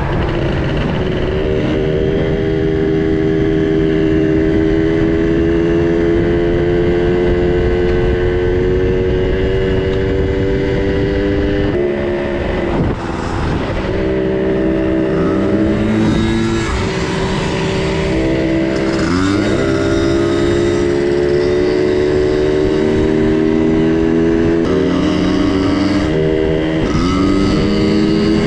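Small two-stroke minibike engine running steadily under way, its pitch shifting at about 12 s and again near 25 s, with short rising and falling revs a few times in the second half.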